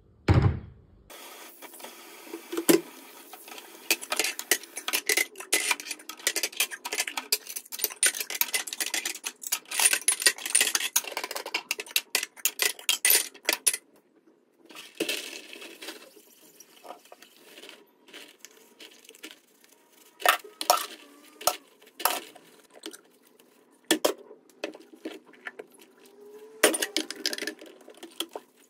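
Dry food poured into a storage container, a dense rapid rattle of small hard pieces for about thirteen seconds. After that come scattered clinks and knocks as containers and lids are handled and set down.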